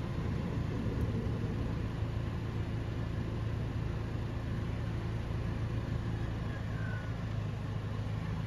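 A motor vehicle engine idling: a steady, low, even hum.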